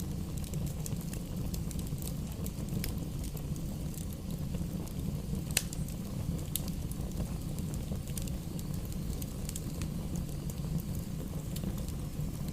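Wood bonfire crackling: scattered sharp pops and snaps over a steady low rumble, with one louder pop about five and a half seconds in.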